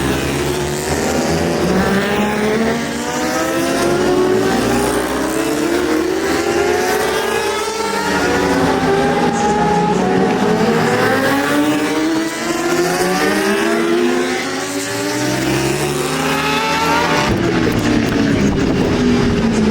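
Several racing superbikes' engines at full race pace, their pitch climbing through the gears and dropping again as they brake, over and over.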